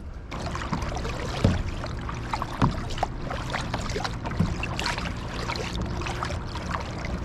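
Creek water splashing and gurgling, with a few louder splashes.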